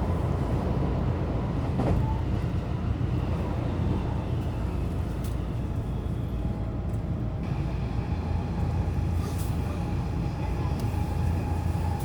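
JR local electric train running with a steady low rumble and a few light clicks. A faint steady whine joins in about halfway through.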